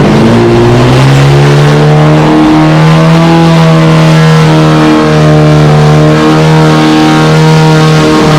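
1310 cc BMC A-Series four-cylinder race engine running on an engine dynamometer, its revs rising over the first second or two and then held at a steady high speed with small dips.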